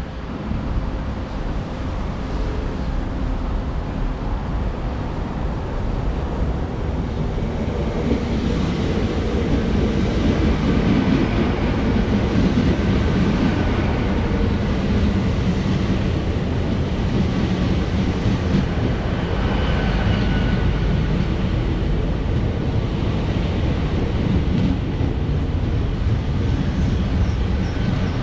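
GWR Class 800-series Intercity Express Train running along the platform on its underfloor diesel engines. A steady rumble and engine hum grows louder from about a third of the way in as the train comes alongside, then holds.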